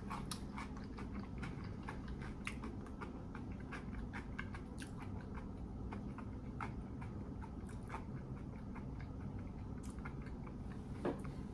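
A person chewing fried battered food with the mouth closed, close to the microphone: a steady run of small mouth clicks and smacks.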